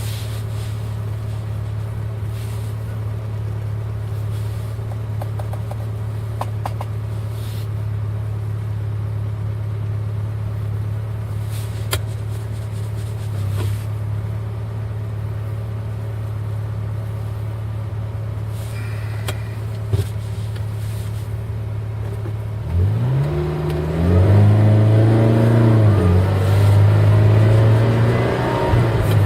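Eight-cylinder car engine running with a steady low drone. About three-quarters of the way in it grows louder as the revs rise and then fall back, and it carries on at the louder level.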